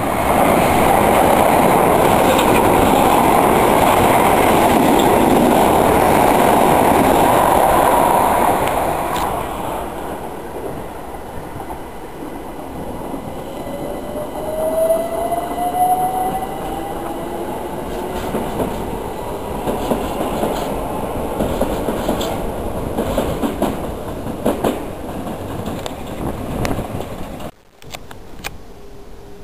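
A train runs past on the tracks, its wheels rumbling loudly on the rails for about eight seconds before dying away. A few seconds later a second train's motors give a rising whine as it picks up speed.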